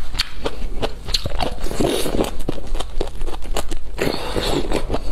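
A person biting and chewing crisp pickled shoots: a run of sharp crunches and crackles with wet chewing between the bites.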